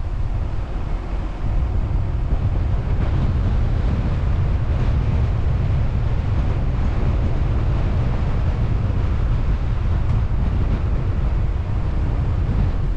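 Steady noise of a moving car, with wind buffeting the microphone and a heavy low rumble.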